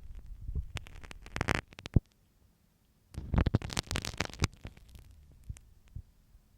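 Marking pin (sewing pin) scraping and tapping in an ear for ear-cleaning ASMR: close, irregular scratchy rustles, a sharp click about two seconds in, a pause of about a second, then another dense run of scratching.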